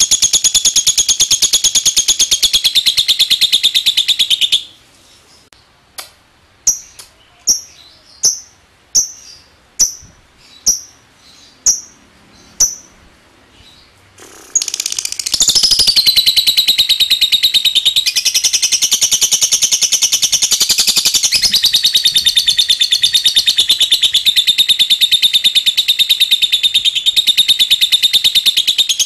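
A lovebird giving its long rapid chattering trill, the 'ngekek'. The trill breaks off after about four and a half seconds into a run of about eight short separate chirps spaced a little under a second apart, the 'ngetik'. Then a second long trill starts up and runs on, wavering in pitch.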